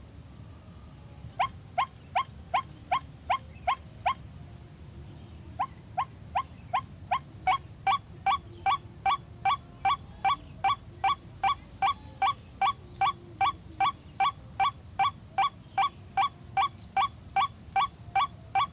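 White-breasted waterhen calling: one short, sharp rising note repeated evenly about three times a second. It pauses for about a second and a half near the four-second mark, then starts again.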